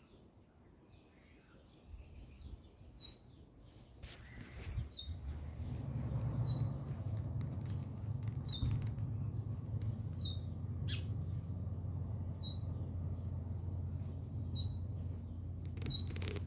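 A small bird giving a short, high chirp over and over, about every two seconds. A steady low rumble comes in about five seconds in and carries on beneath the chirps.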